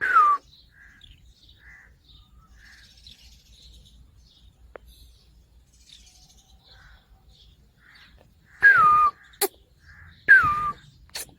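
Cockatiels calling: three loud, harsh calls, each dropping in pitch, one at the start and two near the end, with soft, short chirps repeating in between.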